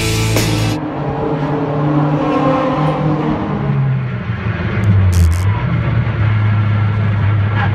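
Lotus Exige 240's supercharged four-cylinder engine running hard on track, heard from inside the cabin. Its pitch rises, drops as the car brakes about four to five seconds in, then holds and climbs again near the end. Music cuts off within the first second.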